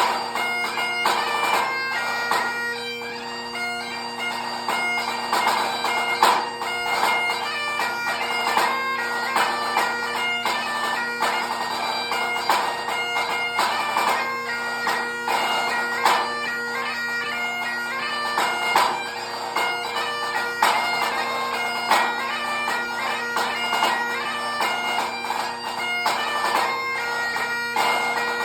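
Great Highland bagpipe playing a lively tune over its steady drones, with a pipe band snare drum playing crisp rolls and strokes along with it.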